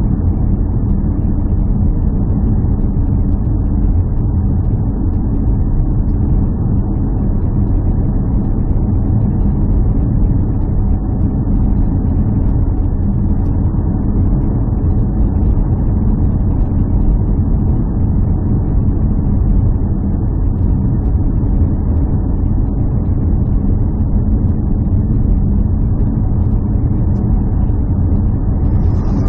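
A steady, unbroken low rumble of a running engine.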